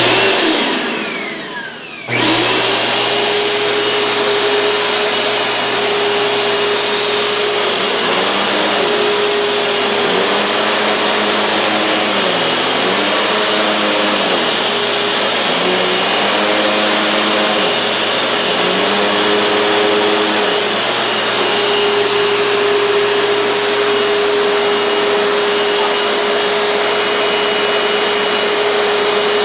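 Vacuum cleaner switched on, its motor whine falling away over about two seconds, then switching back on and running steadily with a high whine. Partway through, the lower hum of the motor wavers up and down in pitch several times before settling again.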